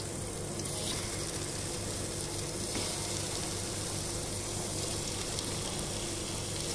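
Halved tomatoes sizzling steadily in hot mustard oil in a steel pan as more halves are set in, with a steady low hum underneath.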